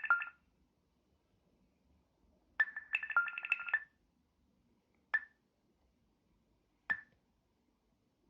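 Microsoft Lumia 640 XL smartphone speaker sounding short electronic notification chimes on its own: a brief burst at the start, a quick run of repeated chimes about three seconds in lasting just over a second, then single pings near five and seven seconds. These are phantom notification sounds that come with no trigger and keep on after a restart, battery removal and uninstalling messaging apps; the owner wonders whether the phone is broken.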